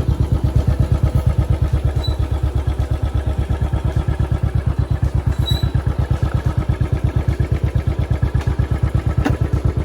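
An engine idling nearby, a steady rapid thudding of about eight to nine beats a second.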